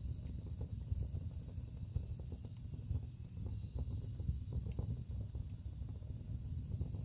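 Wood fire crackling in a fireplace: frequent small irregular pops and snaps of burning logs over a low steady rumble of the flames.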